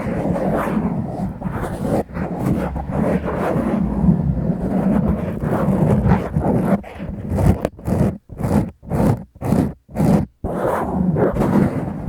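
Close-up scratching on a foam microphone windscreen on a Tascam recorder, a continuous rough rubbing. A little past the middle it breaks into short separate strokes with brief silences between them, then runs on continuously again near the end.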